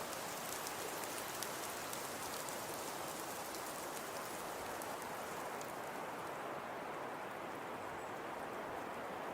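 Fireplace crackling: a steady soft hiss with many small, sharp pops, which thin out and stop about six seconds in.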